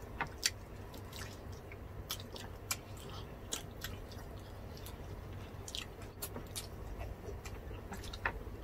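Close-miked eating: two people chewing and biting into grilled pork belly and roast chicken, with irregular wet clicks and small crunches of mouth sounds over a low steady hum.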